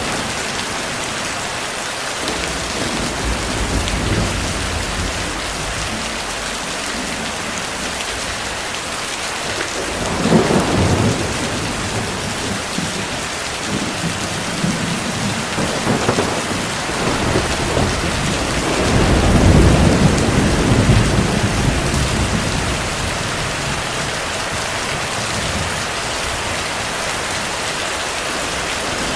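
Steady heavy rain with distant thunder. Low rolls of thunder swell about a third of the way in, again just after the middle, and longest and loudest about two-thirds through.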